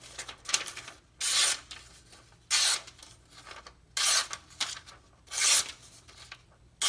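A German stainless kitchen knife drawn edge-first across a conditioned Norton India coarse sharpening stone under hand-weight pressure, giving a gritty scraping hiss. There are five short strokes about a second and a half apart, each one brief with quiet between.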